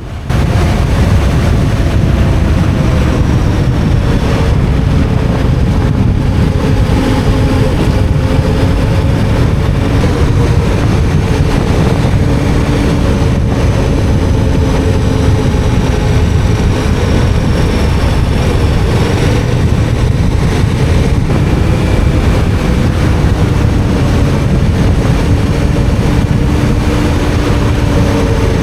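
KTM 1290 Super Adventure R's 1301 cc V-twin running at a steady cruise on a gravel road, its engine note holding with slight rises and falls under a loud, dense rumble of tyres on gravel and wind.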